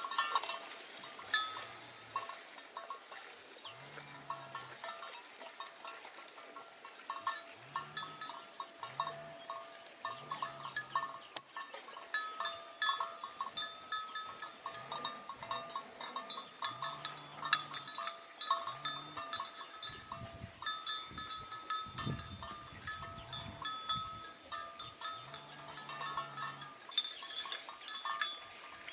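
Bells on grazing livestock clanking and ringing over and over, with short low calls repeating every second or two and a rougher noisy stretch about two-thirds of the way in.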